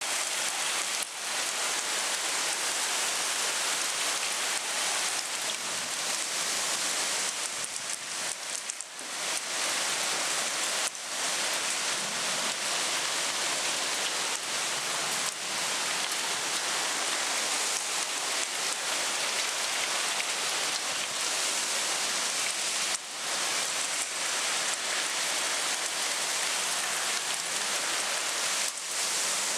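Heavy wind-driven rain pouring down in a summer storm: a dense, steady hiss that dips briefly a few times.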